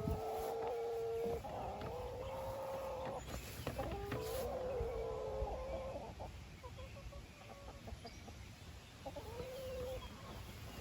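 Hens calling: a run of long, drawn-out calls, then a few short clucks and one more long call near the end.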